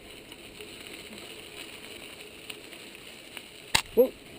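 Mountain bike freewheel hub ticking as the bike coasts, with a sharp click near the end followed at once by a brief pitched squeak.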